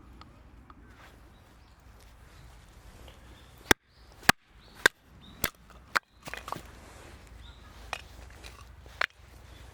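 Sharp chopping knocks: five in quick succession about half a second apart, then two more spaced out near the end.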